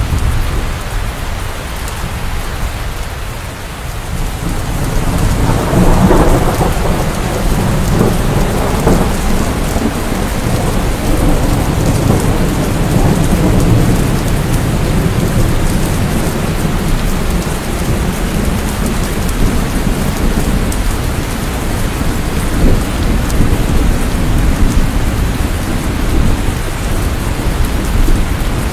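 Steady heavy rain falling, with a long low roll of thunder that swells about five seconds in and rumbles on for several seconds.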